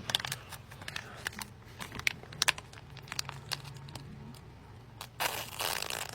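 MRE cheese spread pouch being handled and torn open: scattered plastic crinkles and small clicks, with a louder rustling burst about five seconds in.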